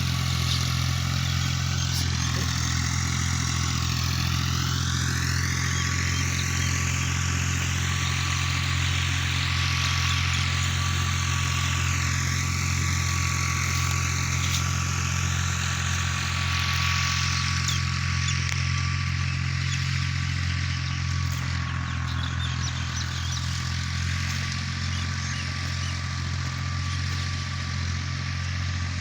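Tractor engine running steadily at an even speed while working a rotavator, a constant drone with a hiss of noise above it.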